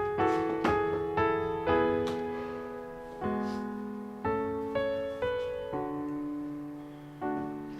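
Background music: a slow solo piano melody, one note at a time, each struck and left to fade.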